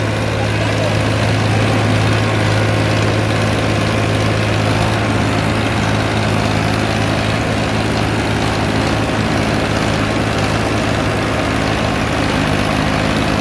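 Farmtrac tractor's diesel engine running steadily at a constant speed, a loud, even low hum with no change in pitch.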